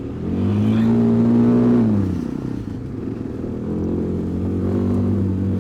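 Kawasaki KLX250 dual-sport's single-cylinder engine accelerating: the revs rise in the first second and hold, fall away about two seconds in, then the engine runs steadily at lower revs.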